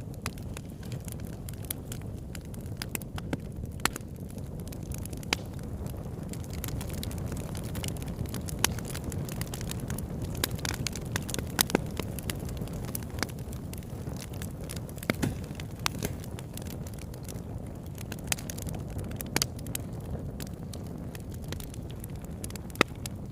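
Campfire burning, a steady low rush of flames with sharp, irregular crackles and pops of burning wood.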